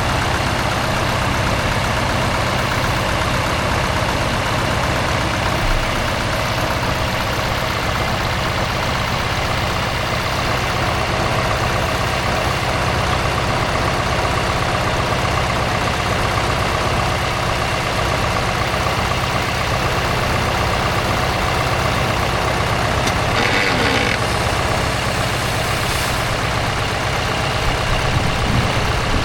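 Heavy off-road competition truck's engine running steadily at low revs.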